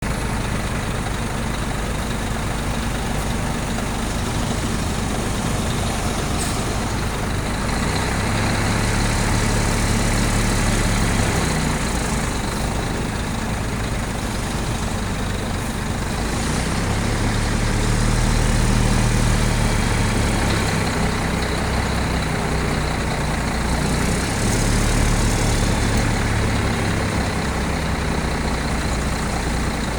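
Scania heavy diesel engine running, its note swelling and rising three times as it pulls, with a few short high hisses like air releases.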